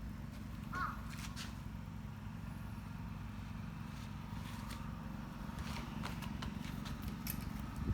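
Wind buffeting a phone microphone, a steady low rumble, with a few light scattered clicks.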